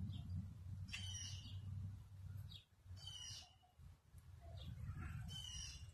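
A bird calling three times, about two seconds apart. Each call is a quick falling note that ends in a brief held whistle, heard over a low steady rumble.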